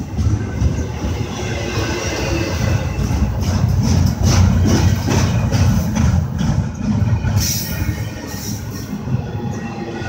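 Double-stack intermodal well cars of a freight train rolling past close by: a loud, continuous low rumble of steel wheels on rail, broken by short rattles and clanks from the cars.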